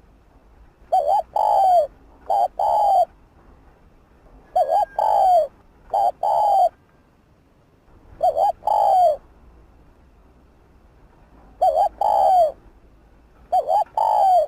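Spotted dove cooing: short phrases of a few low coos, repeated about every three to four seconds.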